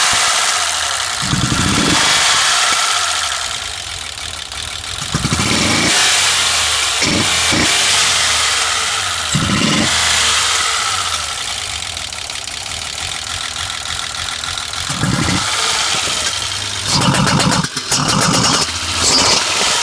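BMW M20B20 2.0-litre straight-six running, revved in several short throttle blips. Each blip brings popping back through the intake manifold. That is a sign of a valve not sealing: the mechanic suspects one was struck when a rocker arm broke.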